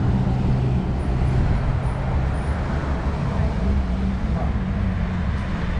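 A tow vehicle's engine running steadily, a low, even hum.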